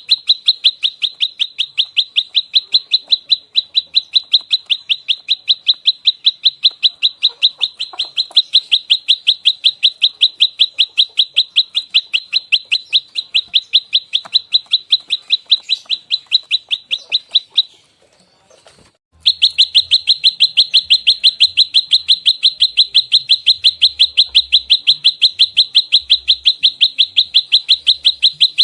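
Prenjak lumut, a small Indonesian songbird, giving its rapid-fire fighting call: a fast, even string of sharp high chirps, several a second, with one short break about two-thirds of the way through before the string resumes.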